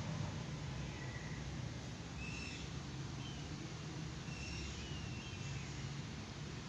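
Outdoor ambience: a steady low hum with several faint, short, high bird chirps scattered through the middle.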